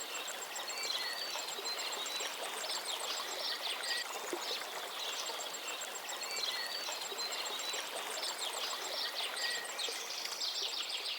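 River water flowing steadily, with birds singing a short chirping phrase over it every few seconds.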